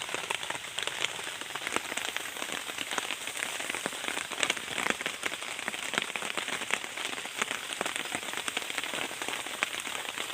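Heavy rain falling steadily, a dense patter of drops striking surfaces with many sharp ticks.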